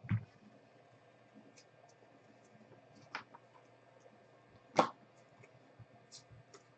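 Three sharp, short clicks, the third about five seconds in the loudest, with faint ticks between them in a quiet room.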